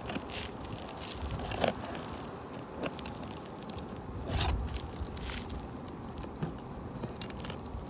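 Asphalt roof shingles being worked loose by hand: irregular scraping and crackling, with a few short sharp clicks.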